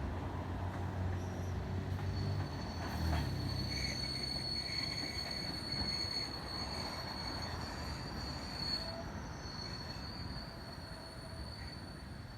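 Passenger train hauled by a KZ4AC electric locomotive rolling along the track, with a steady high-pitched wheel squeal setting in about two seconds in. The sound fades a little toward the end.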